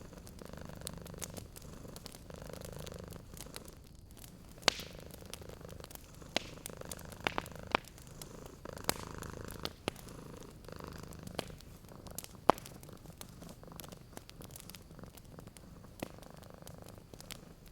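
Domestic cat purring steadily, with a wood fire crackling and giving sharp pops every second or two, the loudest near the start and the middle.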